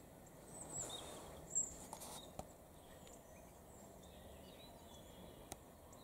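Quiet outdoor ambience with a few short, high songbird chirps in the first two seconds, the loudest about a second and a half in, plus a few faint clicks.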